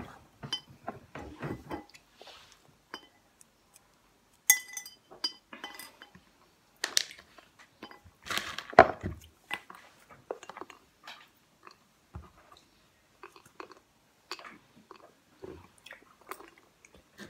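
Popcorn being crunched and chewed, with scattered clinks and taps as hands pick pieces out of bowls. The loudest knocks come about halfway through.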